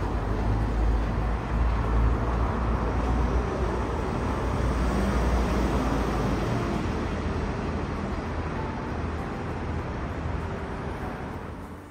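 Low, steady rumble of a train moving on the rails, fading away near the end.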